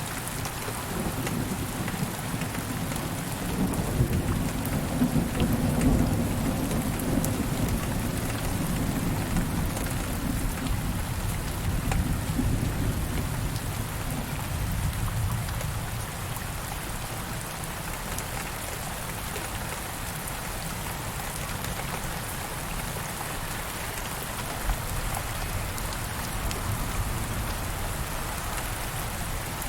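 Steady rain falling, with a low roll of distant thunder that swells a few seconds in and fades away past the middle.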